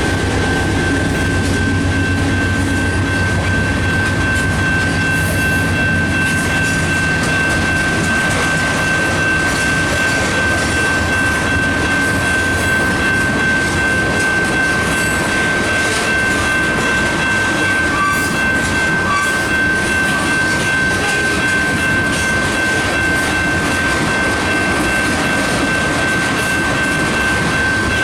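Freight train of ethanol tank cars rolling steadily past, wheels clicking over the rail joints, with a steady high-pitched squeal throughout. A low diesel locomotive drone fades out over the first few seconds.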